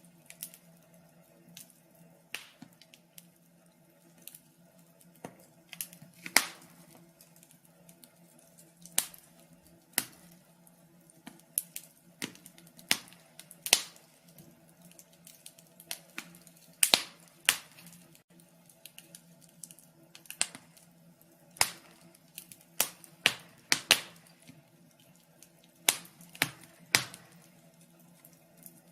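Wood fire crackling in a fireplace: irregular sharp pops and snaps, a few much louder than the rest, over a faint low steady hum.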